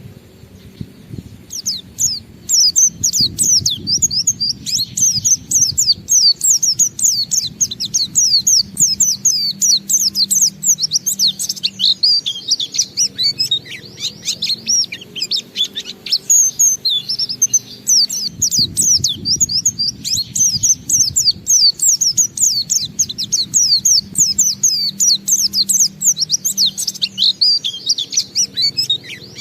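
White-eye (pleci) singing its long, unbroken 'ngalas' song: a rapid, high-pitched stream of chirps and warbled trills that starts about a second and a half in and runs on without pausing. A low steady background noise sits under it.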